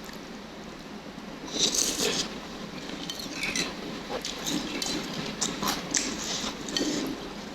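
Eating noodle soup: utensils clinking against the bowl among chewing and other mouth sounds, with a louder, noisier sound about one and a half seconds in.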